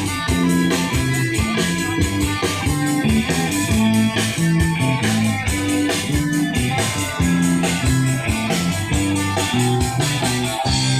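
Rock music: guitar over a steady drum beat.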